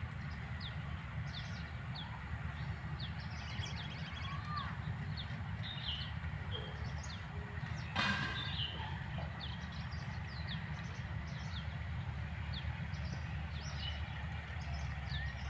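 Many small birds chirping and twittering in short scattered calls over a steady low rumble, with one sharp click about eight seconds in.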